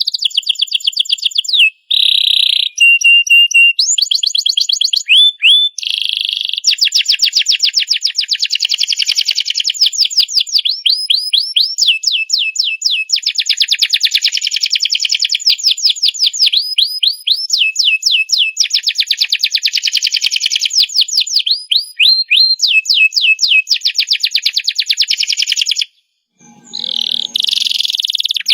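Domestic canary singing a long, loud song of fast trills and rolls, each a rapid run of repeated high notes, switching from one trill to the next every second or two. The song breaks off briefly near the end and then resumes.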